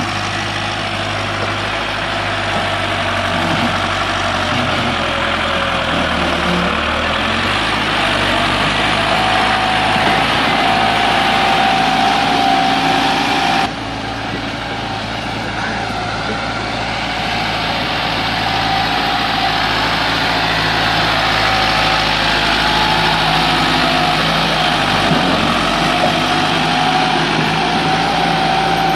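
Tractor engine running steadily and loud, with a sudden break about 14 seconds in where the sound cuts and resumes.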